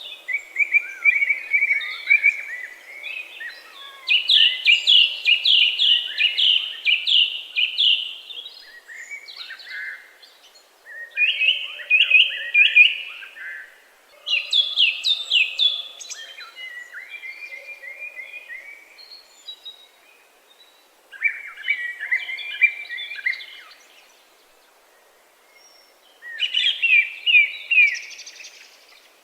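Songbirds singing: repeated phrases of quick trilled notes, each a few seconds long, with short pauses between phrases.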